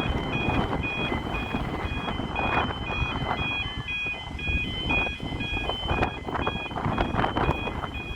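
UK level crossing audible warning sounding: a two-tone 'yodel' alarm alternating between a higher and a lower tone several times a second, with wind rumbling on the microphone.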